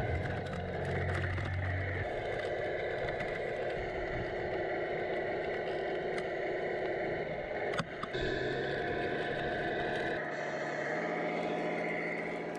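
Radio-controlled Tamiya Freightliner Cascade Evo semi truck driving, with a steady engine-like running sound that shifts in tone a couple of times. A sharp click about eight seconds in.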